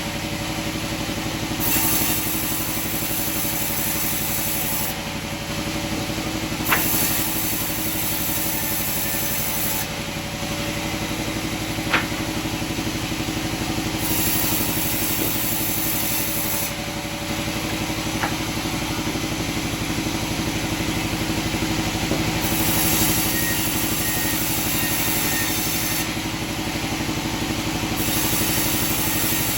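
Sawmill machinery running steadily, with a high hiss that comes and goes every few seconds and three sharp knocks spread through it.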